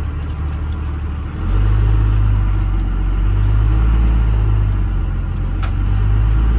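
Diesel pickup truck engine running under way, a steady low drone that steps up and grows louder about a second and a half in as the truck accelerates.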